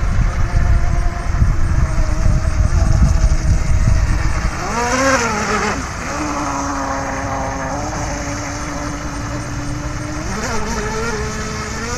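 Whine of a radio-controlled boat's 540 brushless electric motor. It sweeps up and back down about five seconds in, holds a steady pitch for several seconds, then rises again near the end. A low rumble sits under it in the first few seconds.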